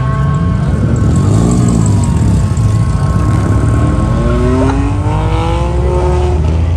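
Car engines revving over a steady low exhaust rumble: one engine's pitch rises and falls about a second in, and another climbs steadily from about four seconds in.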